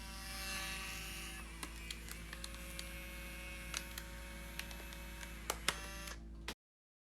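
Steady electrical hum made of several fixed tones, with scattered light clicks and taps of handling. The sound cuts off abruptly near the end.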